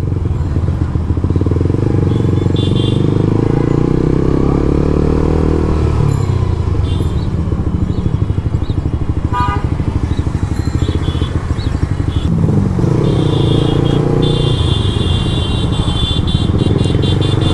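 Suzuki GSX-R150 single-cylinder motorcycle engine running under way through an exhaust with its dB killer removed, its pitch rising and falling with the throttle. Stretches of a high steady tone come in several times, the longest over the last few seconds.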